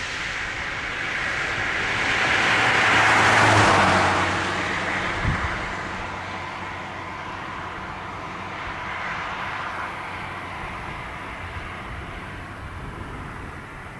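A road vehicle passing by: its tyre and engine noise swells to a peak a few seconds in, then fades away. A short low thump follows a little later.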